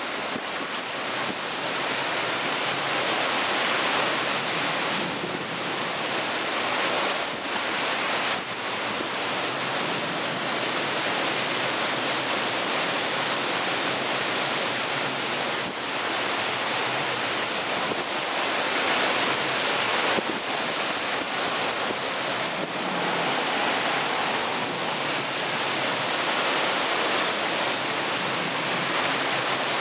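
Typhoon wind gusting, a steady rushing noise that swells and eases a little from moment to moment.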